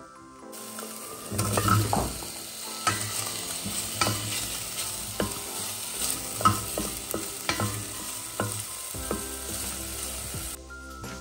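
Bacon strips and sausage pieces sizzling in a stainless steel pot as a wooden spatula stirs them, knocking and scraping against the pot about once a second. The sizzle starts about half a second in and cuts off near the end.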